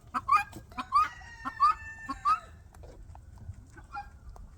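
Farmyard fowl calling: a quick series of short, sharp calls, about two a second, that gives way after about two and a half seconds to fainter, scattered calls.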